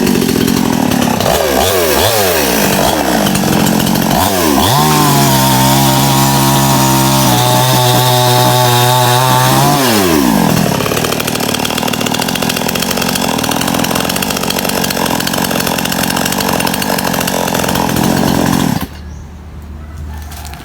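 Small Stihl chainsaw running: its pitch dips and climbs, holds high and steady for several seconds, then falls. It runs on loud and rough before dropping away abruptly near the end.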